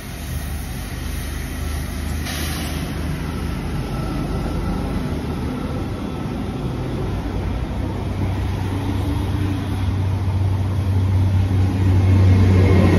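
A GWR Class 800 bi-mode Intercity Express Train running along the platform under its underfloor diesel engines. It makes a steady low engine hum and rumble that grows louder toward the end.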